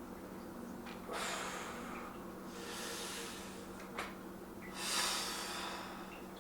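A man breathing hard with the effort of lifting weights: three long breaths about a second and a half to two seconds apart, the loudest near the end, with a small click about four seconds in.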